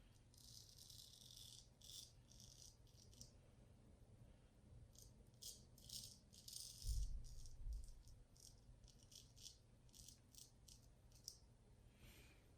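Straight razor scraping through lather and stubble in a series of short, faint crackly strokes, shaving across the grain. A dull low bump comes about seven seconds in.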